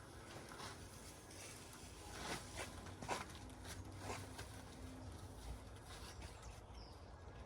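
Faint scattered clicks and rustles over a low steady hum.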